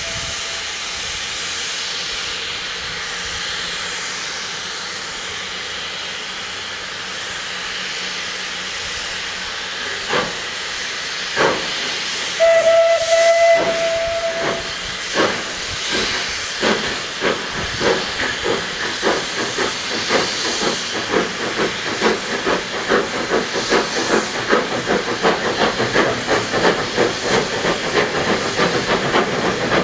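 Steam locomotive standing with steam hissing, then one short whistle blast about twelve seconds in. Its exhaust beats start slowly and quicken and grow louder as it gets under way.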